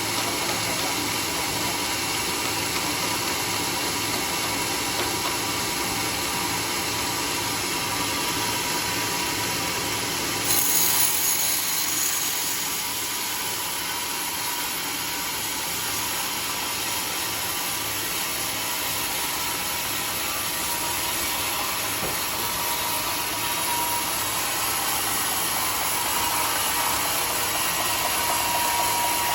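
Sawmill saw running steadily as it cuts teak, with the machine's motor underneath. About ten seconds in there is a brief louder, sharper hiss, and a faint steady whine grows stronger near the end.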